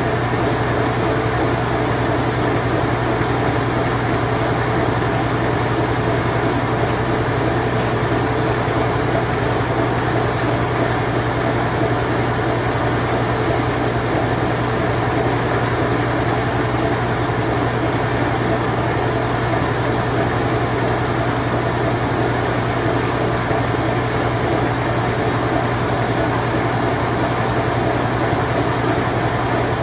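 Late-1980s Whirlpool Imperial Clean Touch top-load washing machine in its spin cycle: a steady motor hum with a low droning tone, unchanging throughout.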